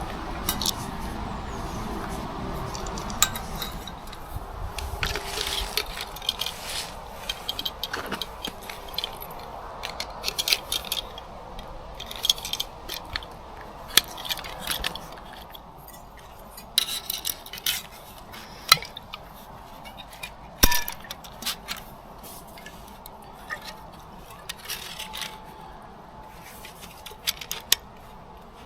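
Camp gear being handled: irregular light clinks, taps and knocks of metal and other hard objects, over a steady background hiss.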